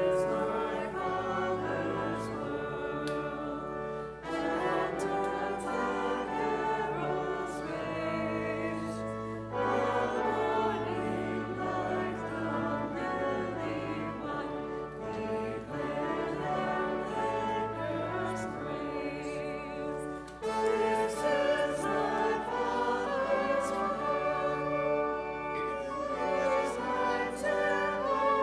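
Choir singing a hymn with instrumental accompaniment, in held chords that change every second or two over sustained bass notes.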